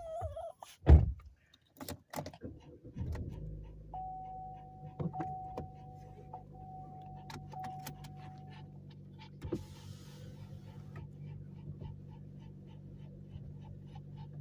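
A car door shuts with a single thump, then the car's engine starts about three seconds in and settles into a steady idle. Over the idle a steady warning chime tone sounds for a few seconds, and a light regular ticking runs on.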